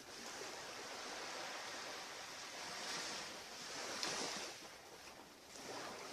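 Ocean surf washing up on a beach: a steady hiss that swells and falls a few times, loudest about four seconds in.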